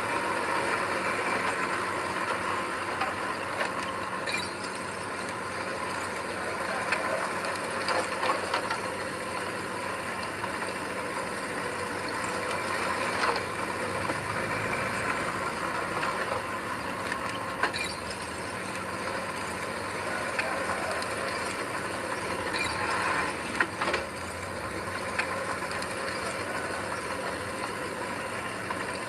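Heavy earthmoving machine's engine running steadily, with scattered short metallic clanks and clicks.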